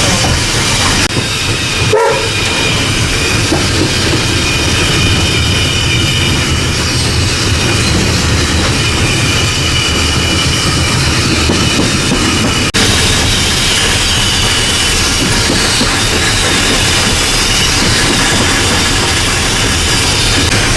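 Steam locomotive Ww 644 running, heard from inside its cab: a steady, loud working noise of the engine and its wheels on the rails.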